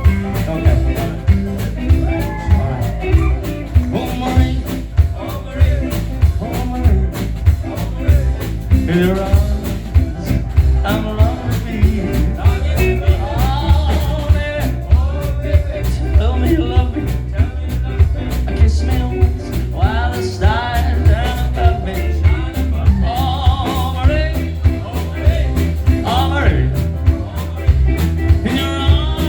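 Swing band playing an upbeat song, with a lead vocal over a steady driving beat.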